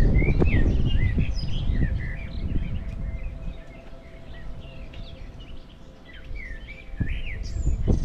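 Several songbirds chirping and singing in short, overlapping calls throughout. Under them runs a loud low rumble, heaviest in the first two seconds and again near the end, with a single knock shortly before the end.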